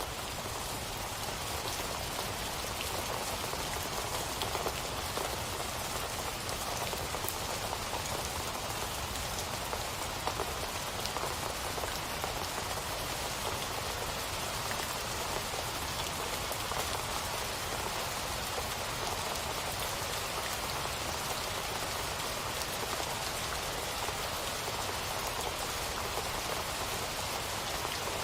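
Steady rain falling, a constant hiss with the patter of drops striking a surface.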